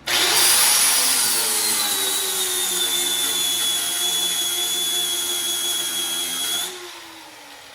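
Power grinder cutting metal on an old car's suspension. Its high whine sags in pitch as it bites, then settles and holds steady. Near the end it is switched off, and the motor winds down with a falling tone.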